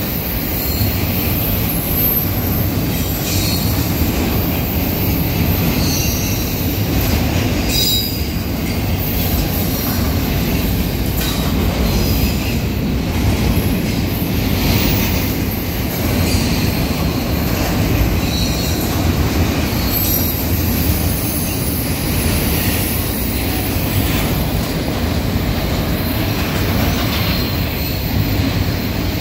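BNSF double-stack intermodal train's well cars rolling past: a steady, heavy rumble of steel wheels on rail, with short high wheel squeals now and then.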